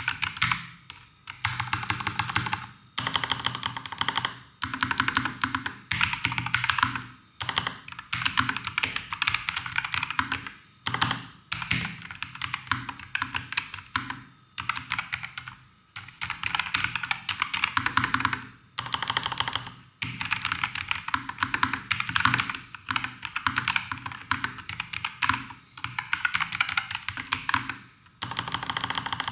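Typing on a NuPhy Air75 V2 low-profile mechanical keyboard with Cowberry switches: fast runs of key clicks in bursts of a second or two, with short pauses between them.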